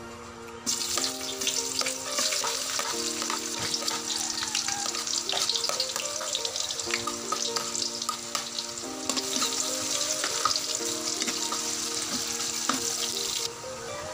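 Minced garlic and ginger strips sizzling and crackling in hot oil in a wok. The sizzle starts suddenly just under a second in, as they hit the oil, and cuts off near the end. Soft background music with held notes plays underneath.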